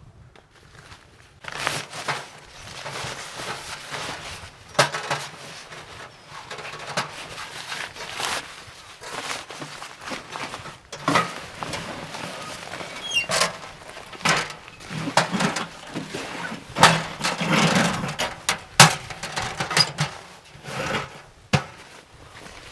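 Irregular knocks, clacks and rustling from things being handled, with a few sharper clicks spread through.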